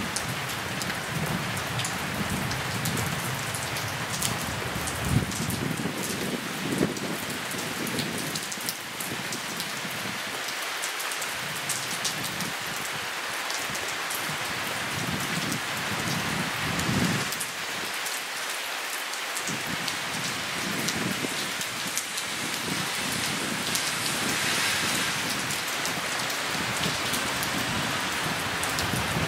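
Steady rain falling on grass and a wet paved path, with close drops ticking sharply.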